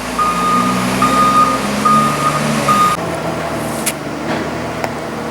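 Reversing alarm beeping about once a second on a machine working the maize silage clamp, over its diesel engine running. The beeps stop about three seconds in while the engine carries on.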